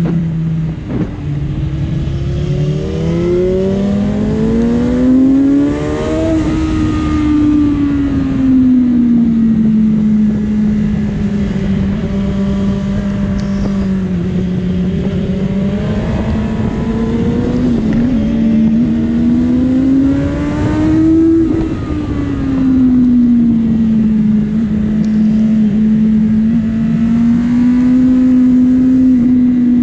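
Honda CBR600RR's inline-four engine running hard on track, with a dense low wind rush over the microphone. Its pitch steps down twice near the start as gears change, climbs steadily to a peak about six seconds in, falls away, and climbs again to a peak about twenty-one seconds in before settling.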